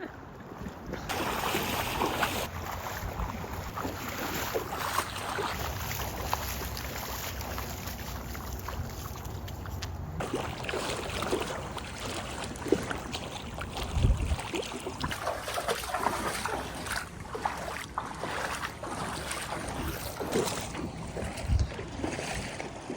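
Wind buffeting the microphone over a steady rushing noise, with two strong low thumps in the second half.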